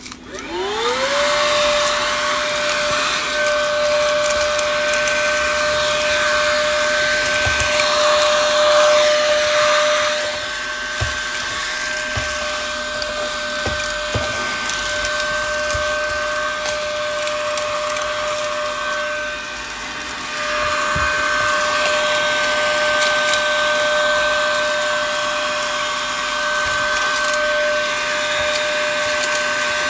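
Small vacuum cleaner switched on, its motor whine rising quickly to a steady pitch, then running while it sucks up broken back-glass fragments from the phone. The rush of air drops briefly twice as the nozzle moves, with a few faint clicks.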